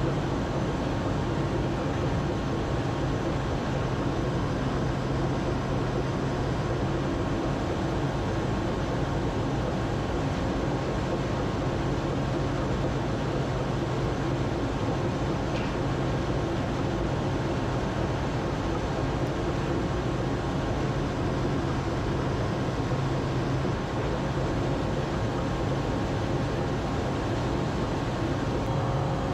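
A steady engine drone with a low hum, unchanging in level and pitch.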